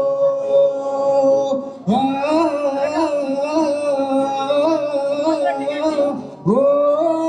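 Music: a slow Hindi/Urdu love song with long held, wavering sung notes over instrumental backing, a new sung phrase starting about two seconds in and another long note near the end.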